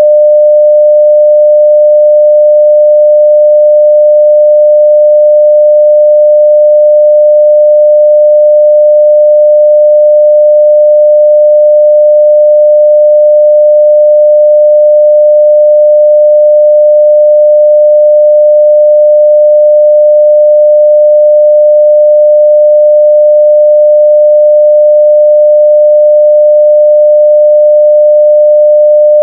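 A 600 Hz sine-wave test tone at full level, one steady pure pitch with no change.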